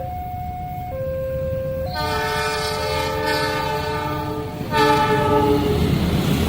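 A level-crossing warning alarm alternating between two tones about once a second, then a train's locomotive horn sounds a long multi-tone blast about two seconds in and a shorter, louder one near five seconds, followed by the low rumble of the train arriving at the crossing.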